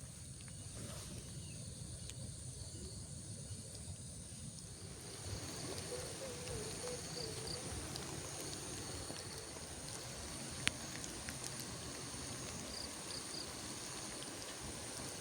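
Rain falling steadily on the forest, with insects giving a steady high-pitched buzz over it. The rain picks up about five seconds in, and a single sharp tick sounds near the end.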